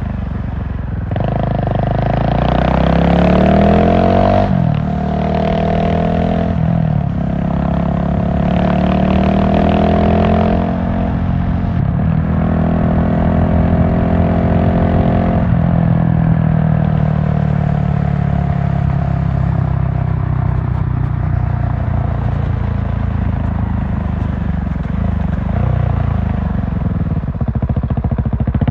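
GasGas SM700 supermoto's single-cylinder engine pulling hard through the gears, the revs climbing and dropping sharply at each upshift, about three times. The revs then fall away slowly as the bike slows, and pick up again near the end.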